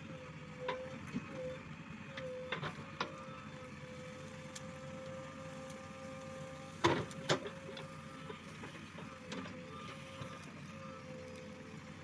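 JCB 3DX Plus backhoe loader's diesel engine and hydraulics running with a steady, slightly wavering whine, with a few sharp knocks from the work, the loudest a pair about seven seconds in.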